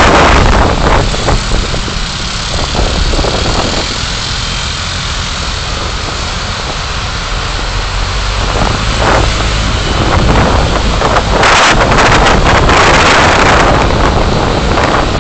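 Car driving, recorded by a dashcam: steady low road rumble under loud wind and tyre noise, which swells loudest at the start and again about three-quarters of the way through.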